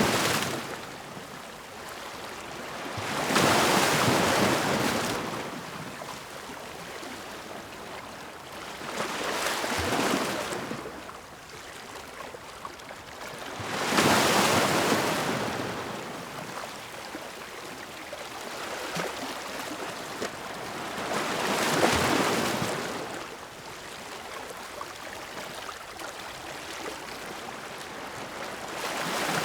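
Ocean waves breaking on a shore. Each one swells into a rushing wash of surf and then falls back to a softer hiss, about every five to eight seconds.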